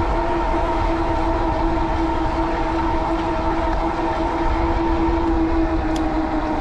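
Steady whine of an e-bike's 750-watt Bafang rear hub motor running at a constant speed, one fixed pitch with overtones, over low wind buffeting on the microphone.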